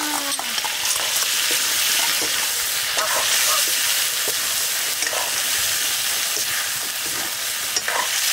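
Food sizzling steadily as it fries in hot oil in a pan, with small scattered clicks over the hiss.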